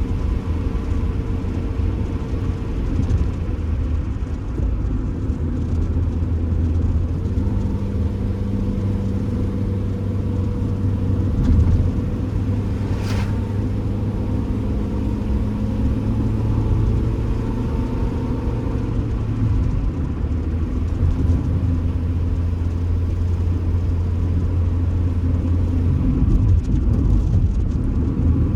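Stock old Honda Civic driving, heard from inside the cabin: a steady engine and road rumble whose engine tone shifts about 7 seconds in and again near 19 seconds. A single sharp tick comes about 13 seconds in.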